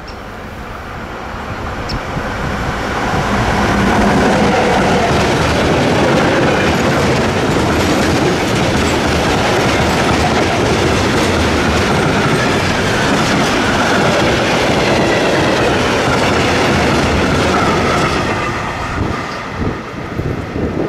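A train passing close by on the rails: the rumble of its wheels builds over the first few seconds, holds steady for about fourteen seconds, then fades near the end.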